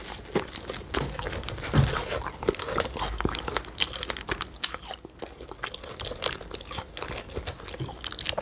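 Close-miked chewing and biting of pastry, with many small, irregular crunchy clicks.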